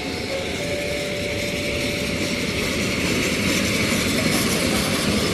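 Open-top freight wagons rolling past on the rails, a steady clatter and rumble of wheels on track that grows slightly louder, with a faint squeal in the first couple of seconds.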